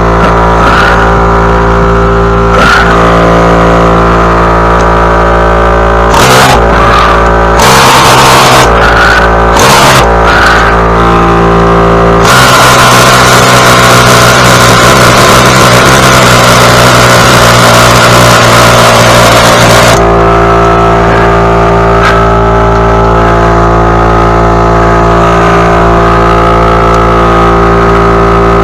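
A small gasoline engine running loudly and steadily close up. Around six to twelve seconds in its sound drops and surges several times, then a rougher, noisier stretch follows for about eight seconds before it settles back to a steady run.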